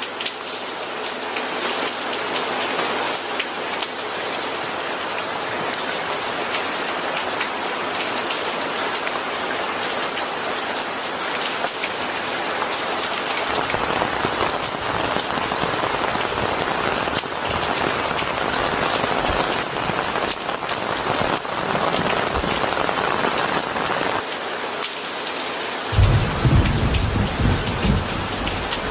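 Steady rain falling, an even dense hiss. About three seconds before the end a deep rumble of thunder sets in and grows louder.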